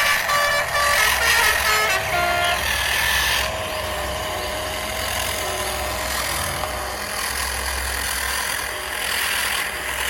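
Music with short melodic notes for the first few seconds, then the steady running noise of a radio-controlled model construction vehicle.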